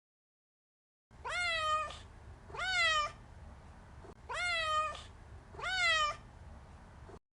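Domestic cat meowing four times, each meow rising then falling in pitch, in two matching pairs, over a faint low hum. The meows start about a second in and the recording cuts off abruptly near the end.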